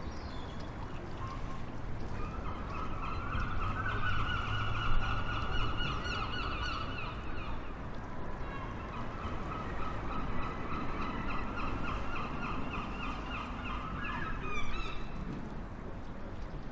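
A bird calling in two long bouts of fast, repeated, shrill notes, the first lasting about four seconds and the second, after a short break, about six, over a steady outdoor background hiss.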